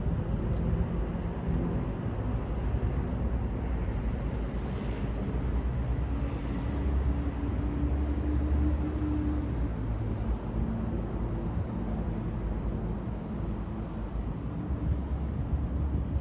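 City street traffic: a steady rumble of passing vehicles, swelling to its loudest about eight to nine seconds in, with a faint high whine above it in the middle of the stretch.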